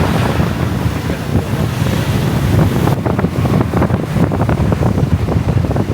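Wind buffeting the microphone: a loud, low rushing rumble that turns choppy and gusty about halfway through.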